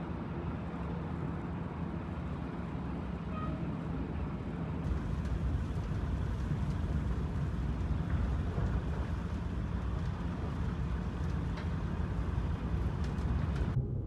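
Steady low rumbling noise, like distant road traffic, that fills out about five seconds in and cuts off abruptly near the end, with a few faint ticks shortly before.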